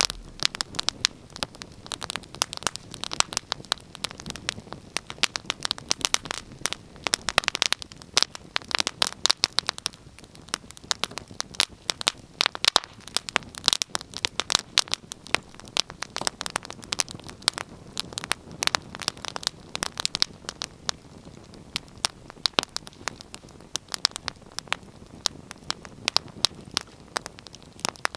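Wood fire crackling in a fireplace: dense, irregular pops and snaps over a soft steady hiss of burning.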